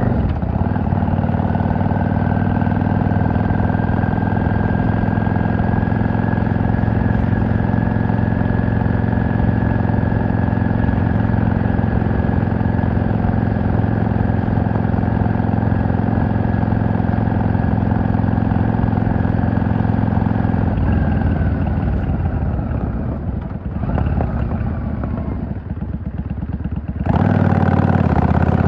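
V-twin cruiser motorcycle engine and exhaust running under steady throttle while riding. About two-thirds of the way through the pitch falls and the engine quietens for a few seconds as the throttle is rolled off. Near the end it comes back sharply louder as the throttle opens again.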